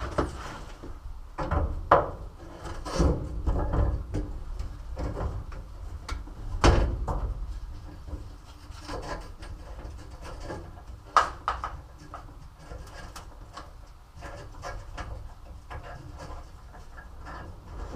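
Irregular knocks, clunks and scraping from hand work on a truck cap being fitted to a pickup bed, with a few sharper bangs among them.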